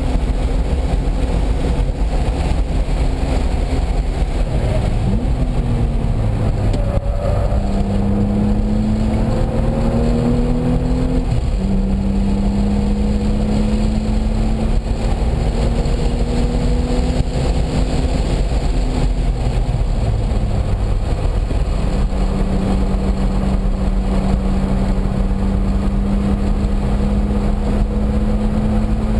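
Car engine running hard on a race track with heavy wind and road rumble. The pitch climbs as it accelerates, drops at a gear change about a third of the way in, climbs again, then holds a steady note over the last few seconds.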